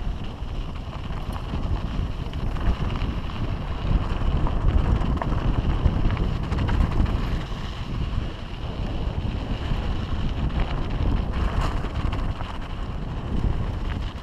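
Wind buffeting a camera microphone as a mountain bike rides downhill: a steady, uneven low rumble with hiss.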